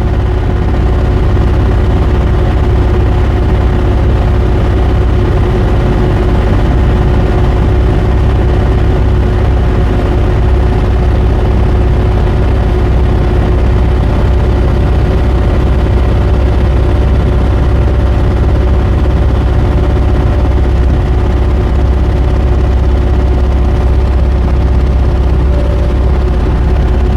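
Diesel engine of a 3.5-ton JoyT5 JT5350 mini excavator running steadily with a deep rumble and a steady hum, as the side swing boom is worked hydraulically.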